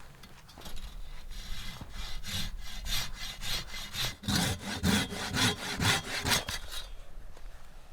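Hand saw cutting through wood in quick back-and-forth strokes, about three a second, loudest in the second half and stopping about a second before the end.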